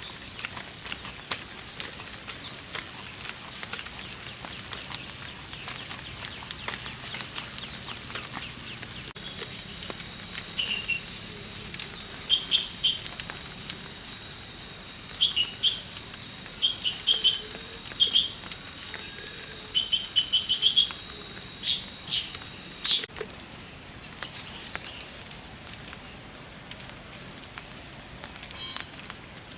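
Insects trilling in one steady, high-pitched note. About a third of the way in it becomes much louder, and near the end it drops abruptly to a quieter pulsing call about twice a second. Short bird chirps sound over the loud middle stretch.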